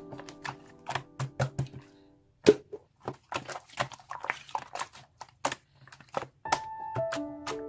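Slime being squished and poked, making a run of sharp clicks and crackles, the loudest about two and a half seconds in. Background music fades out early and comes back near the end.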